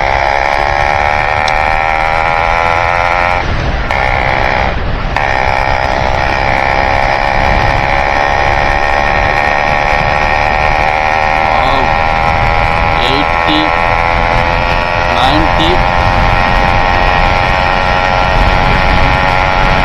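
Yamaha RX135 two-stroke single-cylinder engine running through an altered muffler while the bike is ridden hard, its pitch climbing slowly as it gains speed. The sound breaks off briefly twice, about three and a half and five seconds in.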